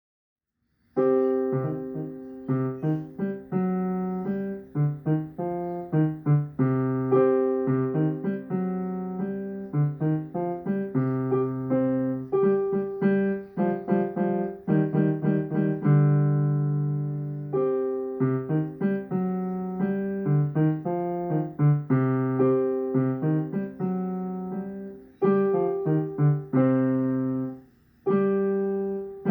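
Piano playing a piece, starting about a second in, with single notes and chords struck in a steady flow and a brief pause near the end.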